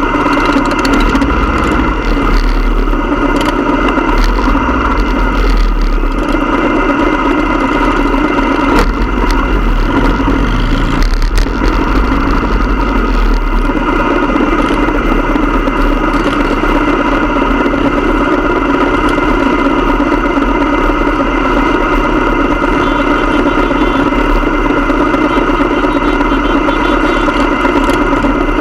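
Motorcycle engine running steadily, its pitch holding level throughout with no revving.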